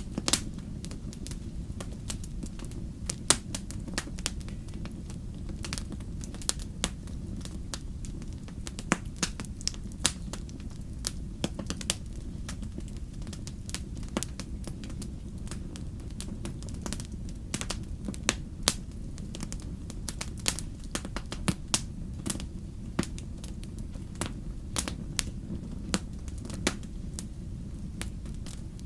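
Wood fire in a fireplace crackling: irregular sharp pops and snaps, several a second at times, over a steady low rumble.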